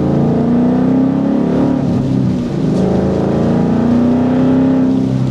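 2014 Ford Mustang GT's Coyote 5.0 V8 through an aftermarket exhaust, pulling under load. It eases off briefly about halfway through, then climbs steadily in pitch again as the car accelerates.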